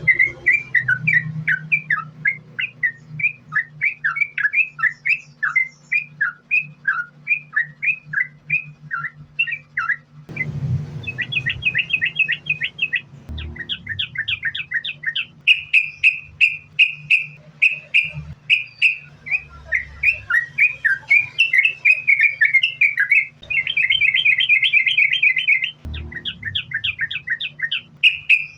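Yellow-vented bulbul (trucukan) singing a long unbroken song of quick, slurred whistled notes, several a second, with bursts of rapid trills partway through. A steady low hum runs underneath.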